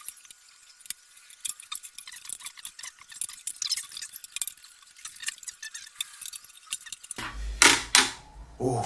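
Rapid metallic clinking and scraping as a homemade safe is pried at, thin and without any low end for most of the stretch. About seven and a half seconds in comes one loud knock, the kind of sound taken as a sign the safe is almost open.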